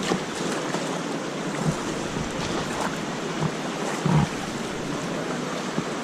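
Steady rush of river water around a whitewater raft, with wind noise on the microphone and a dull bump about four seconds in.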